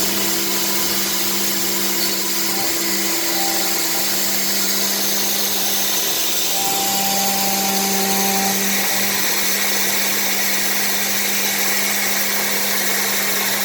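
Electric blower motor of plastic-granule drying and loading equipment running steadily: a loud, even rush of air over a constant low hum.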